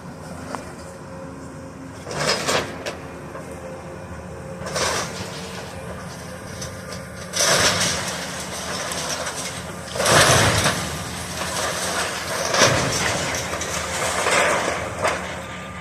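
Demolition excavator working on a building's roof: a steady engine rumble with irregular bursts of crunching and scraping debris, the loudest about halfway through.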